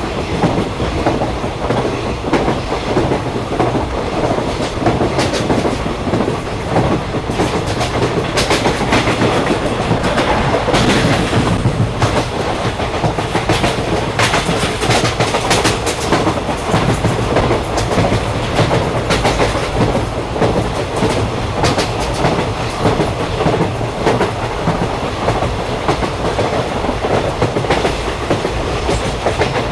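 A moving train's steady rumble with wheels clicking over the rail joints, the clicking busiest through the middle of the stretch.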